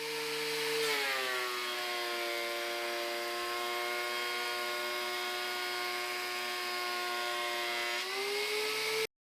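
Electric woodworking power tool running, its motor's whine dropping in pitch about a second in as it comes under load in a cut, holding steady, and rising back near the end as it runs free, over a steady rushing noise of the cut. It cuts off suddenly.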